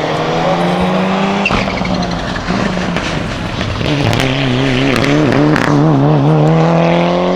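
Race car engine accelerating hard, its pitch climbing. About four seconds in it starts again lower, as after an upshift, and climbs once more with a wavering note. Sharp pops punctuate it.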